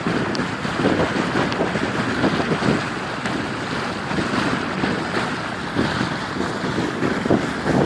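Wind buffeting the microphone, with water washing against a small boat's hull.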